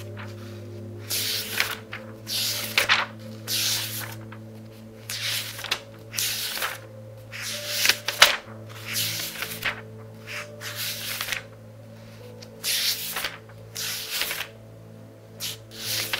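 Pages of a very thick book being turned quickly by hand, each turn a papery swish and rustle, about one a second.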